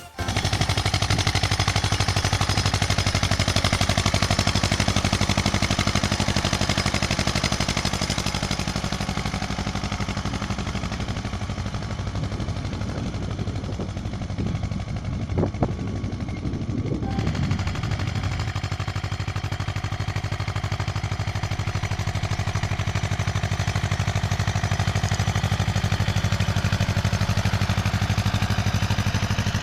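Ursus C-330 tractor's two-cylinder diesel engine running steadily, its engine speed wavering for a few seconds about halfway through.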